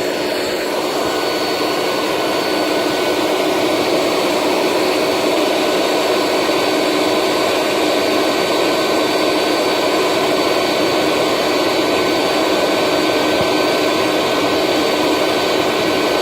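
Handheld blower running steadily at full speed, blowing air into a fire to get wet wood burning. It makes a steady high whine over a rushing noise.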